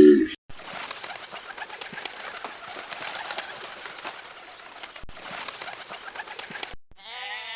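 Birds, a dense noisy mix of calls with no clear tune, breaking briefly about five seconds in and cutting off suddenly near the end.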